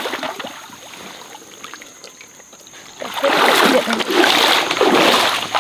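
Water splashing in a stream: a quieter trickling stretch, then loud, irregular splashing from about three seconds in.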